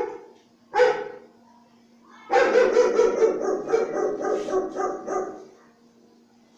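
A dog barking: single barks at the start and about a second in, then a quick run of barks from about two seconds in until about five seconds.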